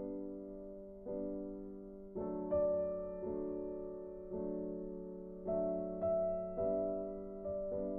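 Background music: slow, soft piano notes and chords, each struck and left to ring out.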